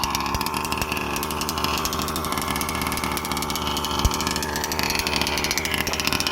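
Zenoah G320RC 31.8cc two-stroke RC engine with an ESP race-ported top end idling steadily, run rich during its break-in on the first few tanks.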